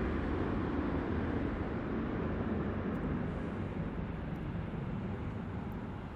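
Distant jet airliner engines, a steady low rumble that slowly fades away.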